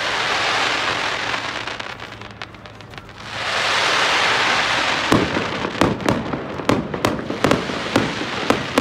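Fireworks: two ground fountains spraying sparks with a loud rushing hiss, in two spells. From about five seconds in, a quick run of sharp pops and crackles follows.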